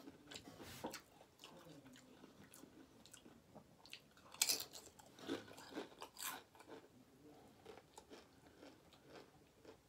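Close-miked chewing, with a crunchy tortilla chip bitten into about four and a half seconds in and a few more crunches after it.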